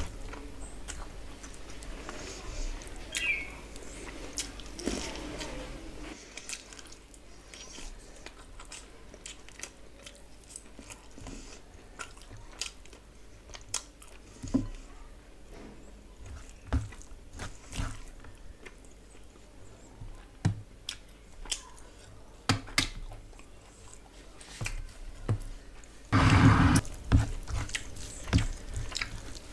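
Close-miked chewing and biting of a person eating chicken biryani and curry by hand, with many short clicks throughout. A louder noisy burst of a second or so comes near the end.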